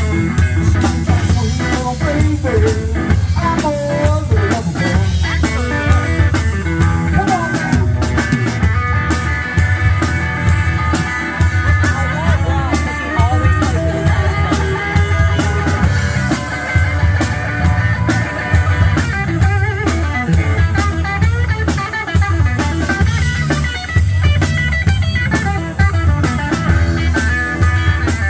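Live blues-rock band playing: electric guitar leads over drum kit and bass with a steady beat.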